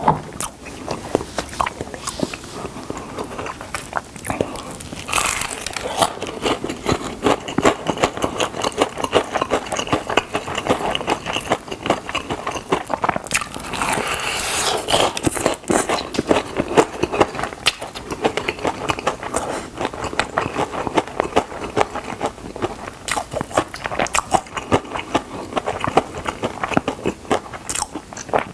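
Chewing and biting into fried chicken drumsticks: continuous crunching of the coating and many small mouth clicks and smacks.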